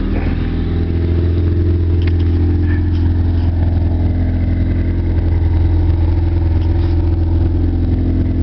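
Ford Tempo engine idling steadily through its stock exhaust pipe with the muffler removed, a low, even drone, still on its fast idle while warming up.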